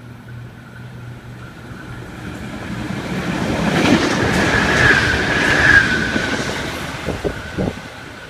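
NSW TrainLink XPlorer diesel multiple unit passing through a station without stopping: engine and wheel noise builds to a peak about halfway, with a high whine swelling at the loudest point, then fades as the train moves away. Several sharp wheel clacks come near the end.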